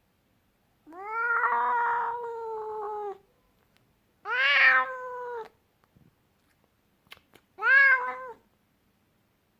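Scottish Fold cat giving three drawn-out angry meowing yowls: the first lasts about two seconds and the next two are shorter. Two faint clicks come just before the last call.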